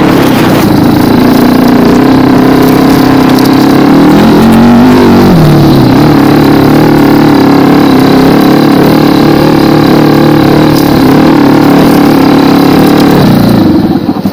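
Racer 250 K2 dirt bike's 172FMM single-cylinder four-stroke engine running steadily while riding, with a brief rise and fall in pitch about four seconds in. It drops to a lower, pulsing idle near the end.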